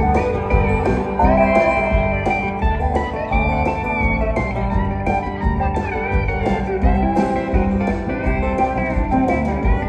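Live country band playing an instrumental break: plucked guitars with notes that slide in pitch over a steady bass and drum beat.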